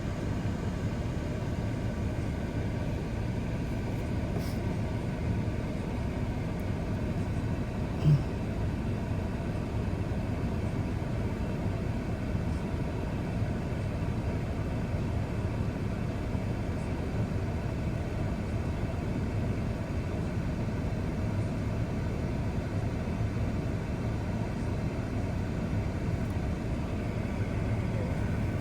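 Steady low rumble of a truck idling, heard from inside its cab, with one short low buzz about eight seconds in.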